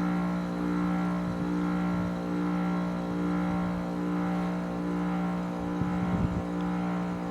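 1999 Rheem 4-ton heat pump outdoor unit running steadily in its defrost cycle, a constant low electric hum from the compressor with even overtones, while the iced-up outdoor coil clears.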